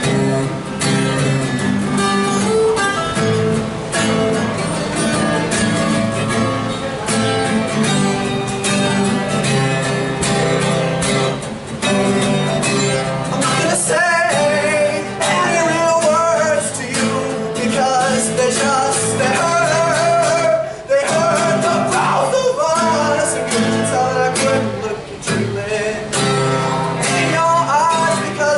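Acoustic guitar played live, strumming the chords of a song. From about halfway through, a wavering melody line rises over the chords.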